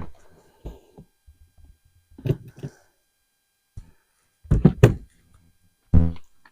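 Irregular thunks and knocks of items being handled and set down in a storage bin, about a second apart, with a quick cluster of knocks a little past the middle.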